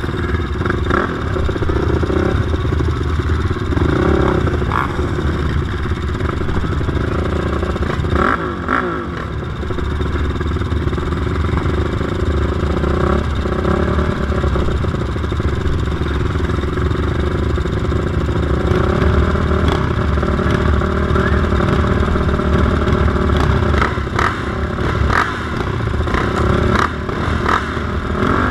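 Racing sport quads' engines running hard and revving up and down, with clattering and scraping from the machines on the track.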